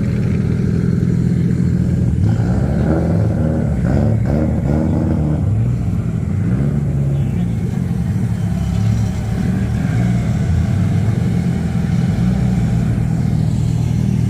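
Car engine running loudly and steadily, its pitch rising and falling a few times between about two and six seconds in.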